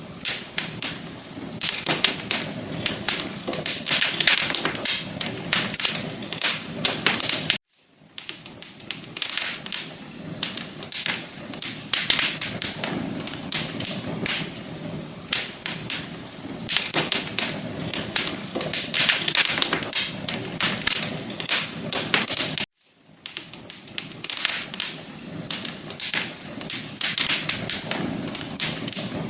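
Wood fire crackling in a fireplace: a dense run of sharp pops and snaps over a soft hiss. It cuts out for a split second twice, where the recording loops.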